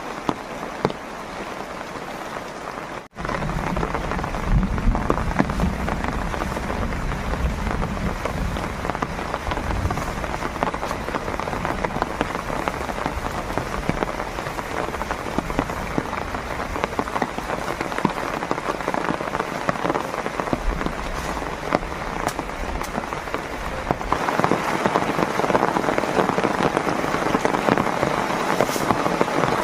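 Heavy rain falling steadily. About three seconds in the sound breaks off for an instant and returns louder, with a low rumble under the rain until near the end, when the rumble drops away and the hiss of the rain grows.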